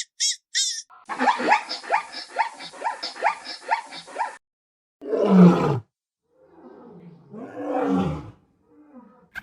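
Big cat roaring: two low, deep roars that fall in pitch, the first and louder one about five seconds in. They follow a run of about a dozen quick, rough calls, each dropping in pitch.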